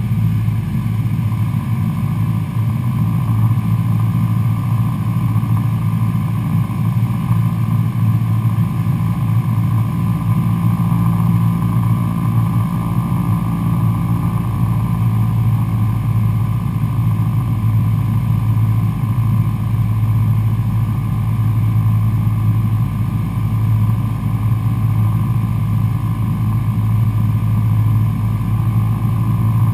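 Cessna 172 Skyhawk SP's four-cylinder Lycoming piston engine and propeller running steadily.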